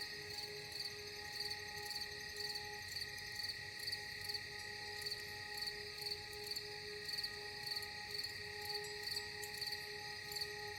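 Crickets chirping in an even rhythm, about two to three chirps a second, over a soft held drone of steady tones from ambient music.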